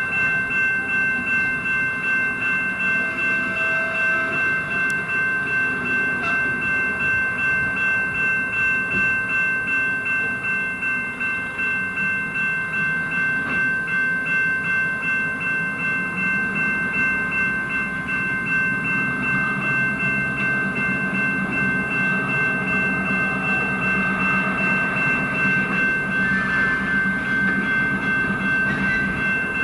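Train running along the track, a low rumble with its wheels clicking over the rail joints in an even rhythm. Steady high-pitched tones ring over it throughout.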